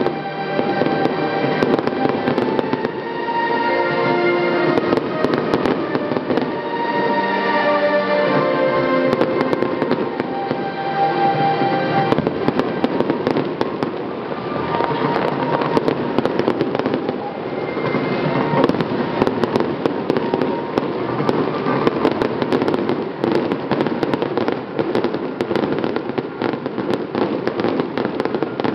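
Aerial fireworks going off in quick succession, a dense run of sharp cracks and pops.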